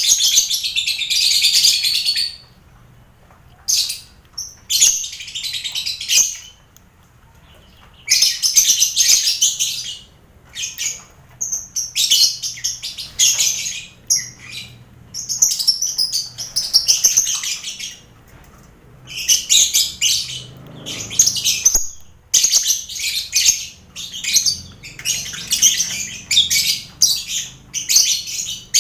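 Lovebirds and finches in a colony aviary, chattering and chirping in shrill bursts of one to three seconds with short pauses between.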